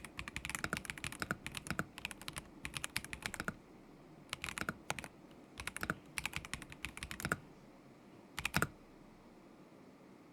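Kzzi K75 Pro mechanical keyboard with Moment linear switches being typed on in bursts of rapid keystrokes with short pauses between them. Near the end comes a louder pair of strokes, then the typing stops.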